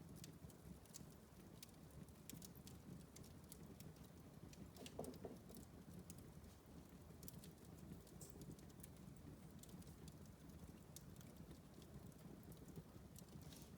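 Wood fire in a fireplace crackling faintly: scattered sharp pops and snaps over a low steady rumble, with a short whistling sound about five seconds in.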